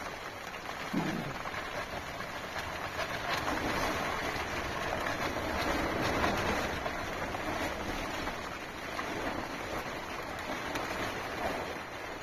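Steady rain falling, a continuous hiss that swells slightly around the middle.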